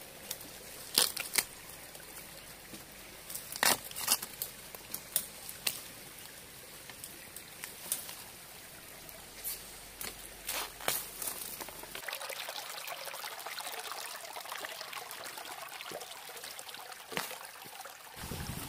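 Bamboo shoots snapping with sharp, crisp cracks as they are pulled and broken off, a dozen or so scattered snaps, some in quick pairs. From about twelve seconds in, a steady hiss runs under them.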